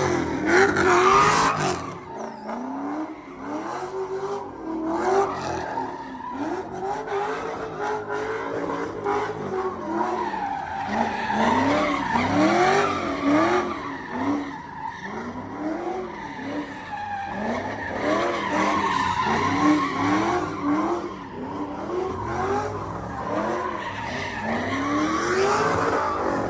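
Car engine revving up and falling back over and over, about once a second, with tyres squealing and skidding on pavement.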